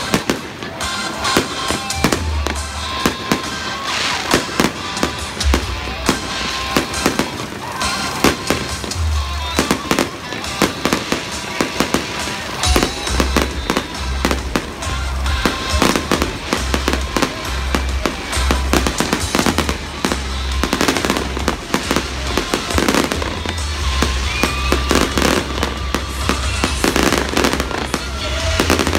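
Fireworks display with many shells bursting in quick succession, over music with a steady bass beat.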